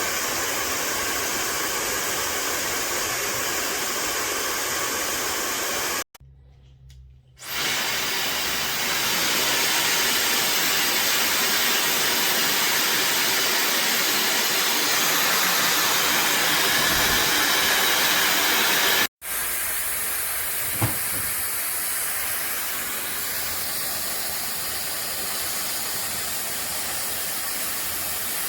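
Fentgo high-speed brushless hair dryer blowing with a steady rush of air. The sound cuts out for over a second about six seconds in and for an instant near the 19-second mark.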